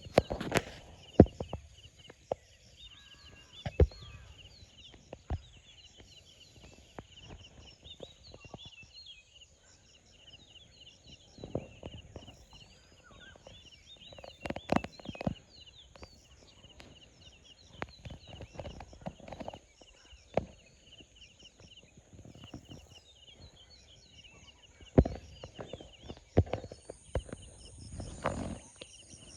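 Birds chirping over a steady high-pitched insect whine. Sharp knocks come now and then, the loudest about a second in and several more near the end.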